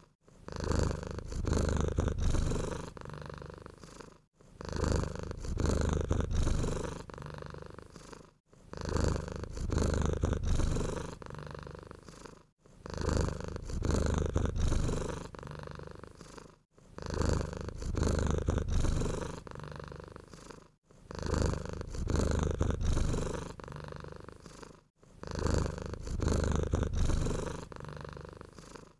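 Domestic cat purring close up, swelling and fading with each breath. The same short stretch of purring repeats about every four seconds, each time broken by a brief dropout.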